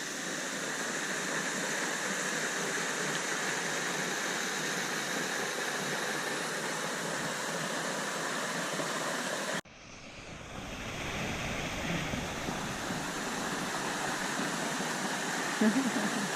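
Steady rushing of a waterfall, an even hiss-like roar of falling water. About ten seconds in it cuts out abruptly and then swells back up over a couple of seconds.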